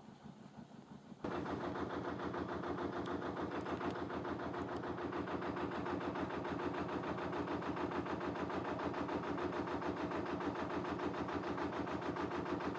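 Narrowboat engine running with a steady, even beat. It is quiet at first and becomes abruptly louder about a second in, then holds steady.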